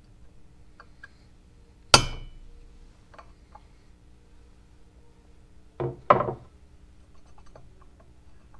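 Metal parts of a vintage meat grinder clinking and knocking: one sharp metallic clink about two seconds in with a short ring, then two quick knocks close together around six seconds in.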